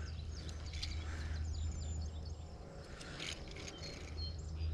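Small birds chirping in short, high calls over a steady low hum, with a few faint clicks.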